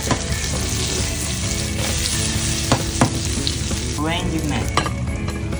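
Zucchini slices and salted kelp frying in olive oil in a nonstick pan: a steady sizzle, with two sharp knocks about halfway through.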